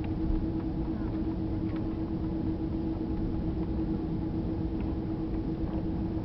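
Airbus A330 cabin noise: a steady low rumble of engines and airflow with a constant hum.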